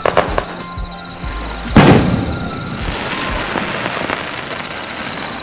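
Aerial firework shells bursting: a few sharp reports near the start, a loud boom about two seconds in, then a crackling tail. Background music plays underneath.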